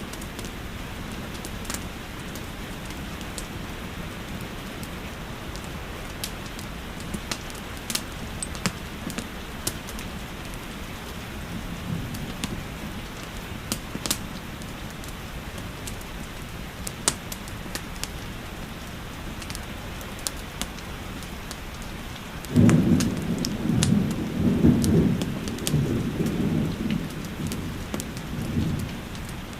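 Steady rainfall mixed with scattered sharp crackles from a fireplace. About three quarters of the way in, a low roll of thunder rumbles for several seconds, the loudest sound.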